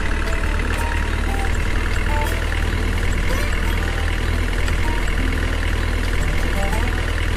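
A steady, unbroken engine or motor drone, heavy at the bottom, with a few short high tones scattered over it.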